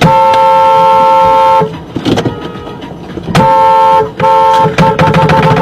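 Car horn honking: one long blast of about a second and a half, two shorter blasts a couple of seconds later, then a quick run of rapid beeps, about five a second.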